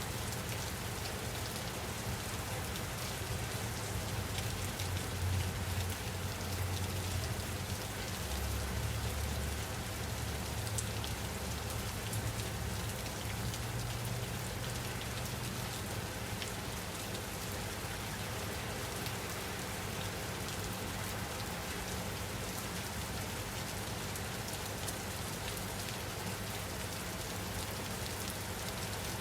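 Steady rain falling on a surface, an even hiss with scattered patter of drops. A low rumble swells and fades again during the first half.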